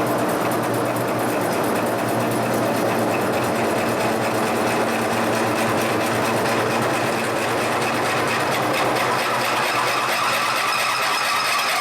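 Machine drilling a steel part with a large twist drill: a steady run of motor and gearing noise with cutting sound. A higher whine comes in near the end.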